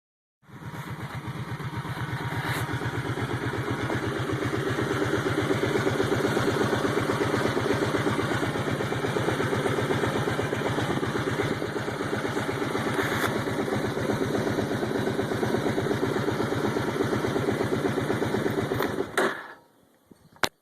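Kawasaki Brute Force 750 ATV's V-twin engine idling with an even, rapid pulse, then shut off about nineteen seconds in. A single sharp click follows near the end.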